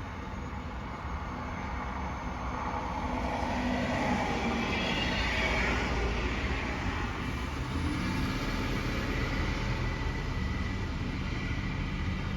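Heavy truck driving by: a steady low engine rumble with road and tyre noise that swells to its loudest around the middle.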